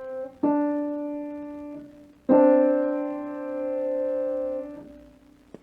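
Piano playing a musical interval for an ear-training exercise. A note ringing on from just before is joined by a new strike about half a second in, then a louder strike at about two and a half seconds that rings and fades out over about two and a half seconds.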